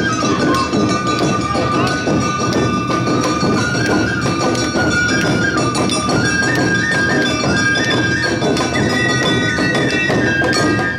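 Awa odori music: a high flute melody stepping between a few notes, over steady clanging of the kane hand gong and drum beats.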